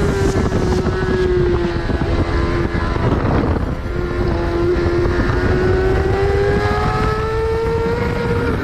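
Yamaha R6's 599 cc inline-four with a Yoshimura AT2 full race exhaust, running hard on track. The engine note sags slightly and breaks up around the middle, then rises steadily over the last few seconds as the bike accelerates.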